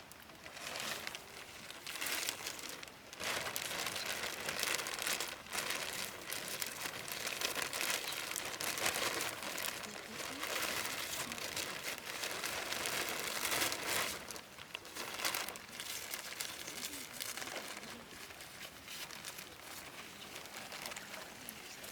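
Irregular crinkly rustling and crackling that comes and goes in bouts of a few seconds, with brief lulls.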